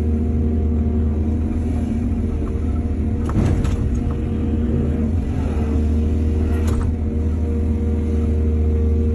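Heavy diesel excavator engine running steadily under hydraulic load, with a short clatter about three and a half seconds in and another knock near seven seconds.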